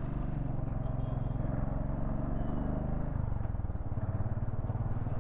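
Royal Enfield Thunderbird 500's single-cylinder engine pulling away, its note climbing, then dropping sharply at an upshift about three seconds in before climbing again.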